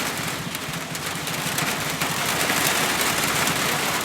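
Heavy rain pouring down, a dense steady hiss with fine patter that gets louder about two seconds in, over the low steady pulse of an engine running.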